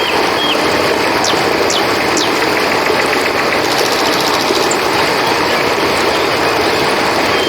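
Steady rushing of river water, with three short high falling chirps about a second in and a fast insect trill, typical of crickets, coming and going.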